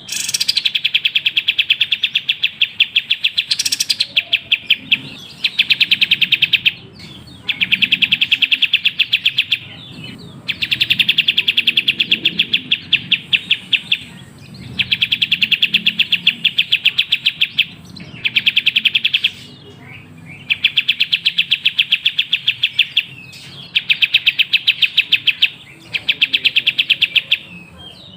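Kapas tembak songbird giving fast, trilling chirp phrases of rapidly repeated notes, each run lasting a couple of seconds, with short pauses between them, about ten runs in all.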